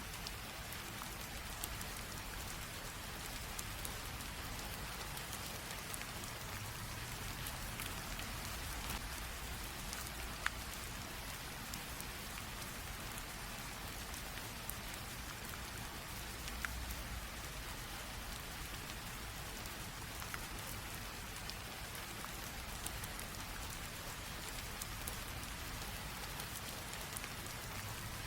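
Light rain falling steadily, a soft even hiss with scattered ticks of individual drops.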